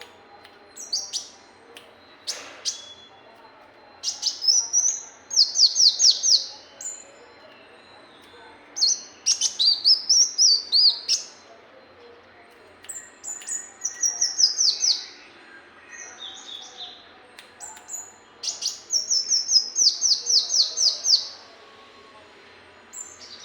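Kolibri muncang sunbird singing: high, thin phrases of rapid repeated notes, each a quick trill lasting one to two seconds, given again and again with short pauses between.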